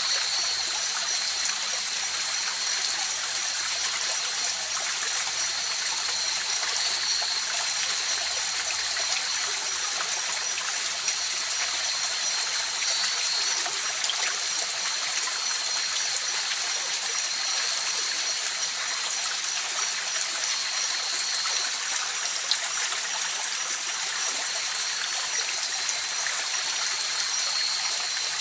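River water flowing and rushing steadily over rocks, with a steady high-pitched trill running above it.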